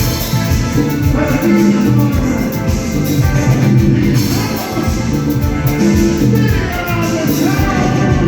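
Live band playing Latin dance music with drums and bass, recorded as room sound.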